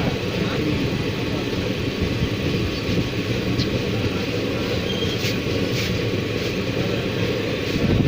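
A running train: a steady low rumble of the moving train, with a few faint clicks.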